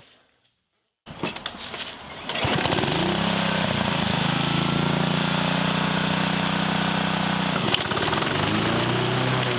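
Honda HR216 lawn mower's single-cylinder four-stroke engine coming up to speed about a second in and then running steadily. Its note dips briefly near the end and picks back up.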